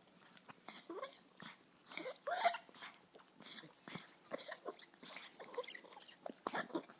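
A dog making a string of short vocal noises, several rising in pitch, the loudest about two seconds in.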